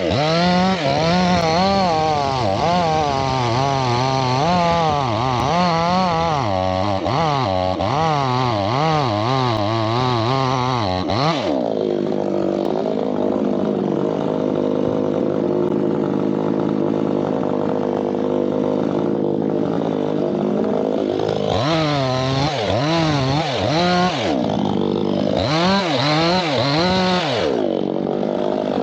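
Two-stroke chainsaw revving up and down under load for about eleven seconds, then running steadily at lower speed, with two more short bursts of revving near the end.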